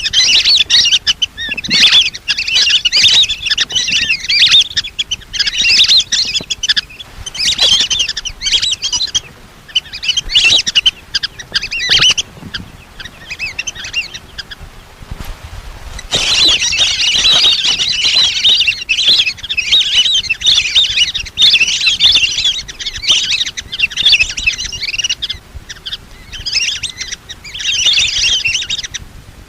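Lesser whistling ducks calling: a flock's high twittering whistles, played as a hunting lure call. They come in repeated bursts of a second or two, with a longer lull about halfway through.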